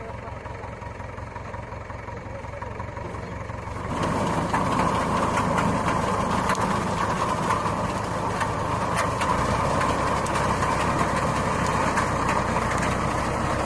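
Tractor engine running steadily, with a wheat reaper in use. About four seconds in, the sound jumps suddenly louder and carries on with a busy clattering of many small clicks and rattles.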